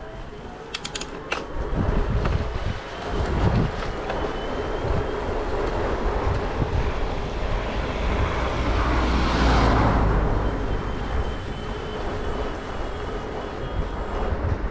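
Wind rumbling on the microphone and tyre noise from a bicycle being ridden along a road, with a few sharp clicks about a second in and a broad swell of noise about nine to ten seconds in.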